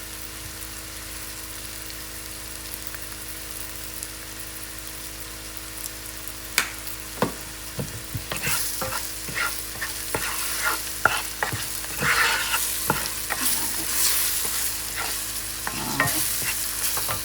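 Curry powder and whole spices frying in hot oil in a pot, a steady sizzle: the Caribbean step of "burning" the curry before the meat goes in. From about six seconds in, a spoon stirs, scraping and knocking against the pot many times.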